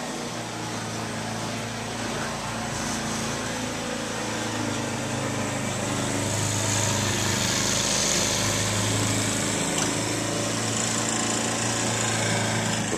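A small engine running steadily, growing somewhat louder toward the middle.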